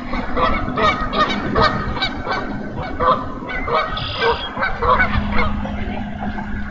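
Many short pitched bird calls from several birds, overlapping and repeating irregularly, over a steady low hum.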